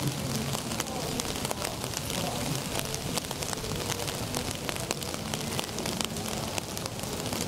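Steady rain falling: an even hiss with many sharp drop ticks.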